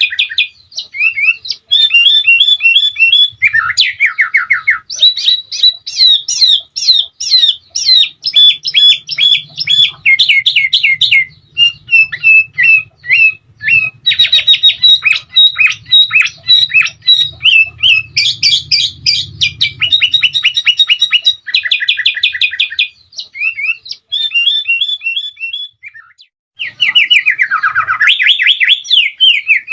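Sooty-headed bulbul (kutilang) singing: long runs of fast, repeated chirping notes in trilled phrases, with only short breaks between them.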